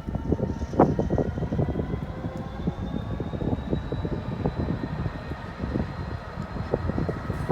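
Rumble of a diesel freight train approaching the level crossing, with a faint steady whine that rises slowly in pitch. Wind buffets the microphone throughout.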